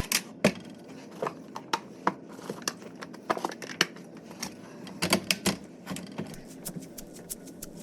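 Quick, irregular clicks and knocks, several a second, from boards being put up on a wall.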